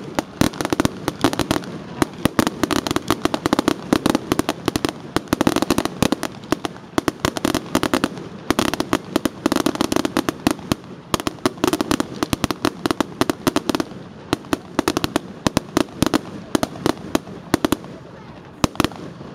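Consumer fireworks going off in rapid volleys of bangs and crackles, thinning to scattered pops over the last few seconds.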